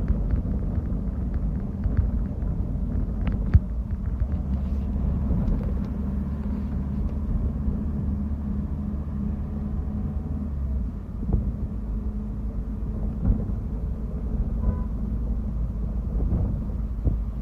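Bus engine and road rumble heard from inside the moving bus: a steady low drone whose engine note changes about eleven seconds in, with occasional short knocks and rattles.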